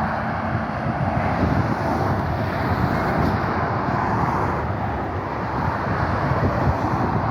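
Steady road traffic noise from vehicles travelling along a busy main road, with a continuous low rumble.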